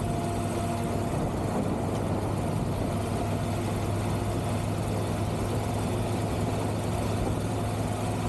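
Triumph Tiger 1200 GT Pro's three-cylinder engine running at a steady, unchanging pitch, a constant hum with no revving.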